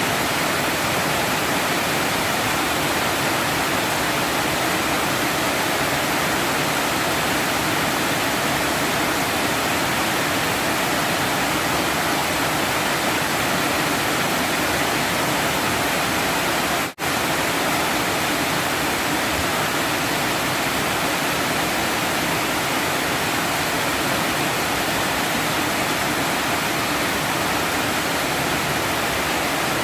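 Heavy storm rain falling steadily, an even wash of noise, which cuts out for an instant a little past halfway through.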